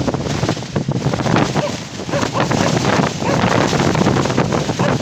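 Wind buffeting the microphone: a loud, steady rushing with irregular crackles throughout.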